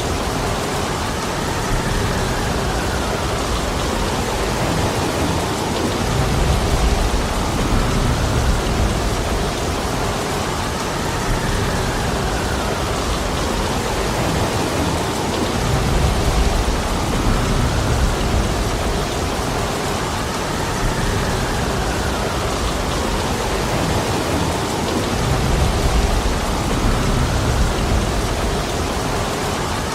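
Heavy, steady rain pouring down, with low rumbling swells rising and falling every several seconds.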